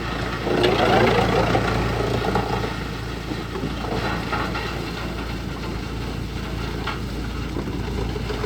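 Wood chipper engine running steadily, with a louder, rougher stretch about a second in and a few sharp knocks later on.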